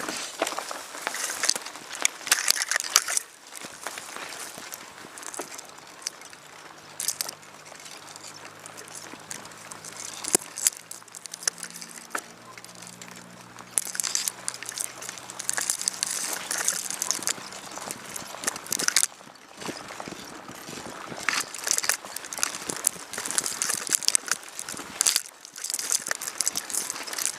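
Footsteps crunching and crackling through dry leaves and twigs on a woodland floor, in an irregular run of crunches that come in louder spells.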